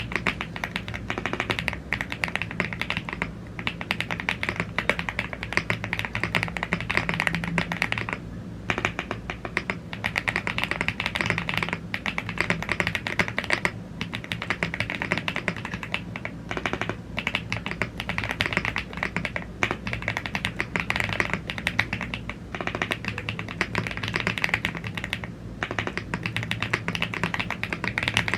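Continuous fast typing on a YUNZII AL75 gasket-mounted aluminium mechanical keyboard with Blue Grey tactile switches and double-shot PBT Cherry-profile keycaps. The key presses run dense, with brief pauses about eight and fourteen seconds in, over a steady low hum.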